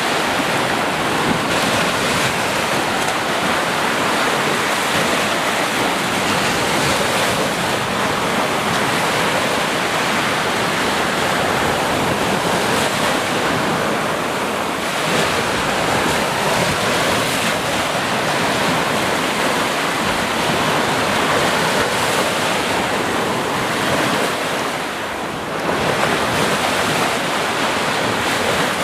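Sea surf: waves breaking and washing in a dense, steady roar, with a short lull about 25 seconds in.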